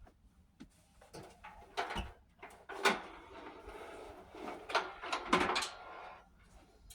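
Objects being moved and set down by hand: a few sharp knocks and thuds, with scraping and rustling in between.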